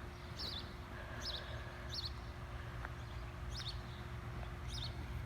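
A small bird chirping: short, high chirps about once a second, over a steady low background rumble.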